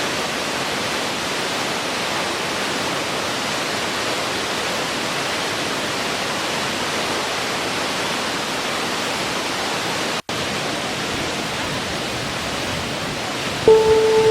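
Steady rush of a waterfall, an even hiss-like roar with a split-second dropout about ten seconds in. Near the end, soft sustained music notes come in over the water.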